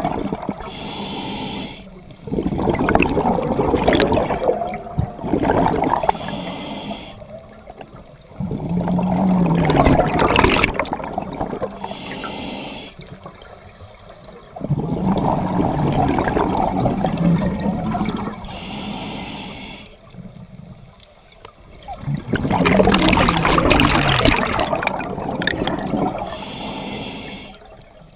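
Scuba diver breathing through a regulator underwater: a short hissing inhale, then a longer, louder rush of exhaled bubbles, repeating about every six seconds.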